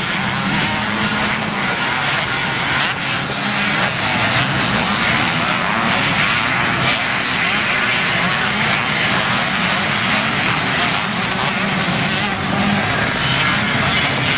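Several vintage motocross bikes racing on the track, engines revving hard and easing off continuously as they pass.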